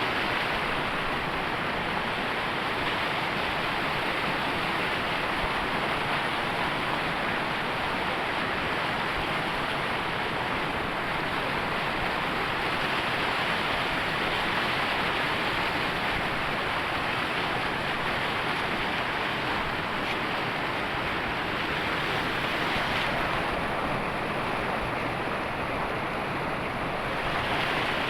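River waterfall rushing: a steady, even roar of falling water, with some wind on the microphone.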